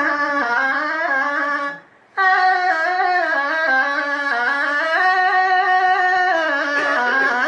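A solo voice singing in Iraqi tarab style, drawing out long held notes with wavering ornaments. It breaks off briefly for a breath about two seconds in, then carries on.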